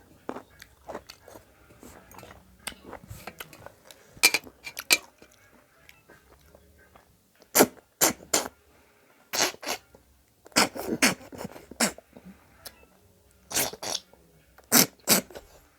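Mouth sucking ghonghi, freshwater snails, out of their shells: a series of sharp, loud slurps in irregular clusters, with short pauses between.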